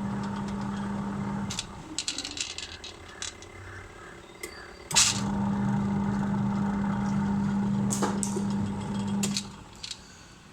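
Samsung semi-automatic washing machine's wash motor running with a steady hum, stopping about a second and a half in, then starting again with a sharp click around five seconds and stopping again near the end. Scattered clicks and rattles fill the pause. This is the newly fitted wash timer cycling the motor through its forward and reverse wash action.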